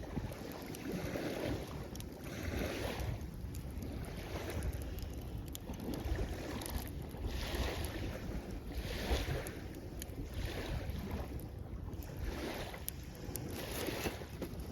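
Small waves washing in at the shoreline, surging and receding every second or two, with wind rumbling on the microphone.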